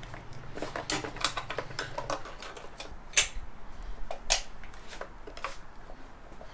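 Irregular clicks and clacks of hands working plastic wiring connectors and clips loose under a motorcycle's tail section, with a sharper clack about three seconds in and another about four seconds in.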